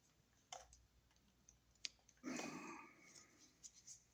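Ground wires being twisted together by hand: a few faint clicks and ticks, with a brief scraping rustle a little past two seconds in.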